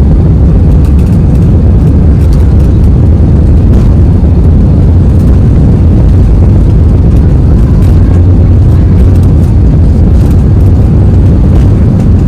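Small passenger airliner's engines at high power heard from inside the cabin: a loud, steady low rumble as the plane rolls for takeoff.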